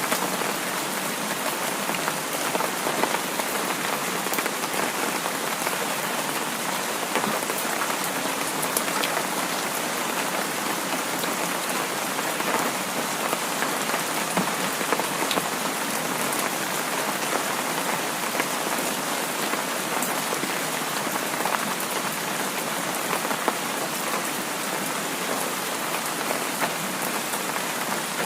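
Heavy rain falling steadily: a dense, even hiss with many separate drops ticking through it.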